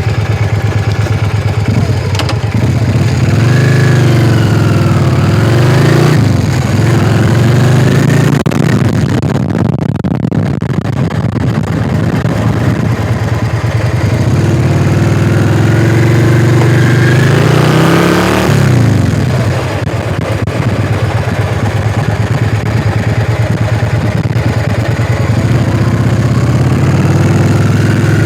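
Yamaha XV400 Virago's air-cooled V-twin pulling away and accelerating under way. Its pitch rises about two seconds in and falls back near six seconds, then climbs again from about fourteen seconds and drops sharply near eighteen seconds, as with upshifts. A steady rushing noise runs underneath.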